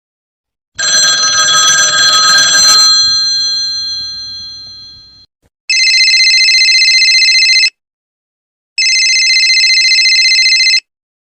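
A ringing sound with a noisy start that fades away over about four seconds, then an old-style telephone bell ringing twice, each ring about two seconds long with a rapid trill.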